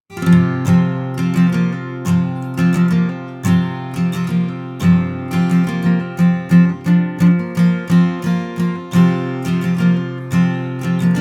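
Acoustic guitar playing an instrumental intro, starting suddenly and strummed and picked in a steady country-folk rhythm of about two to three strokes a second.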